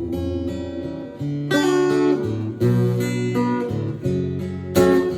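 Acoustic guitar strumming chords, an instrumental passage between sung verses, with fresh strums about once a second.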